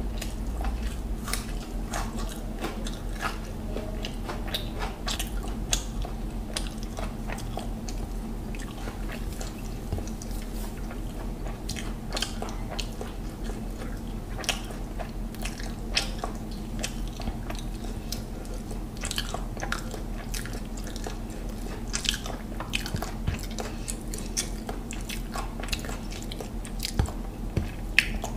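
Close-up mouth sounds of a man chewing mouthfuls of mutton biryani eaten by hand: wet smacks and clicks at an irregular pace, over a steady low hum.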